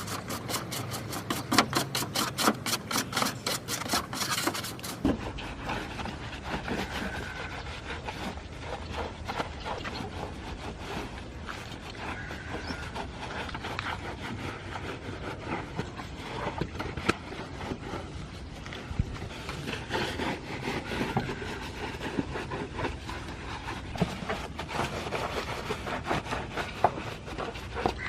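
Brush scrubbing and rubbing at a grimy engine bay during cleaning: irregular scratchy strokes and small knocks, with a fast, even ticking in the first five seconds or so.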